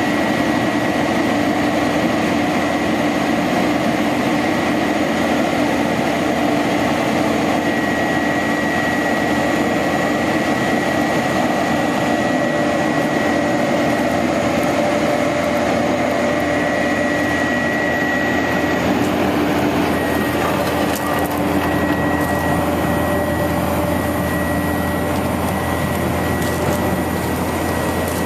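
1999 International 4900 bucket truck's diesel engine running steadily, with a steady whine over it; the low hum grows stronger about two-thirds of the way through.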